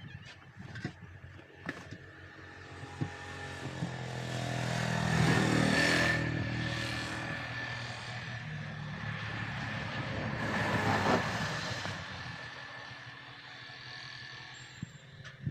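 A motor vehicle engine running, growing louder to a peak about six seconds in, easing off, then swelling again briefly near eleven seconds before fading. A few sharp taps sound near the start.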